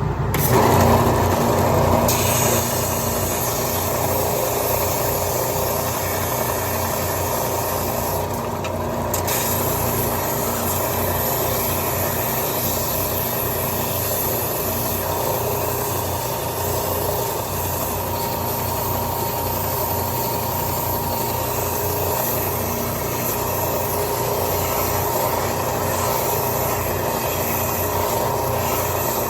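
Ridgid oscillating benchtop belt sander and a Laguna dust collector running together: a steady motor hum over a rush of air drawn through the dust hoses.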